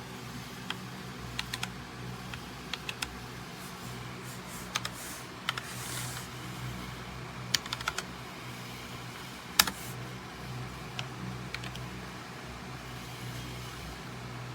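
Keys of a typewriter-style mechanical keyboard pressed slowly and irregularly, a dozen or so separate clicks with one louder clack about ten seconds in, over a steady low hum.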